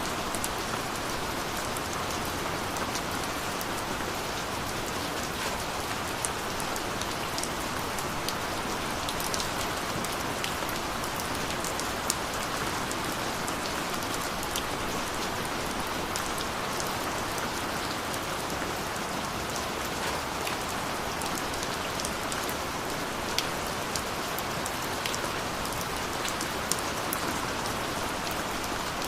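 Steady heavy rain falling on a surface, with many small drop ticks scattered through it.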